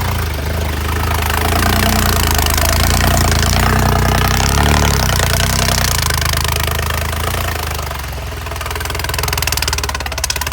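Tractor's diesel engine running steadily at low speed.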